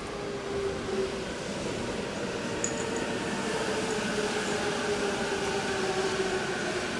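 Electric train running on the line, a steady motor whine over the rumble of the train, slowly getting louder.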